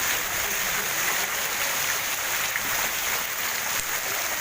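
Heavy tropical downpour: rain falling in a steady, even hiss, with rainwater running across a flooded street.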